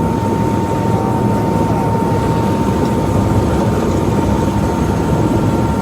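Helicopter running steadily: a loud continuous rumble with a steady high tone above it.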